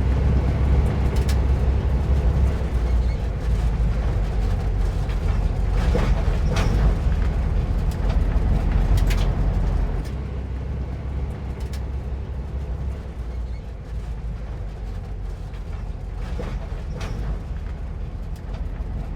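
Air-cooled flat-four engine of a 1950s VW split-window bus running under way on a sandy track, with a few short knocks and rattles from the body. About halfway through the engine sound drops and stays quieter, as the bus eases off.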